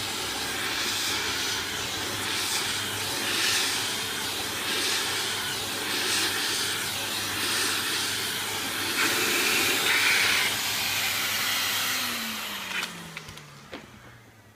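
Vacuum cleaner running with a steady hiss and low hum, swelling in loudness now and then; about twelve seconds in it is switched off and the motor's whine falls in pitch as it spins down.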